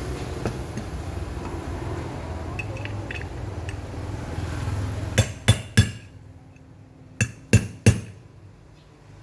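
Two sets of three sharp metallic knocks, about a third of a second apart, like metal parts being struck during a pump repair. A low rumble under the first few seconds dies away around the first set.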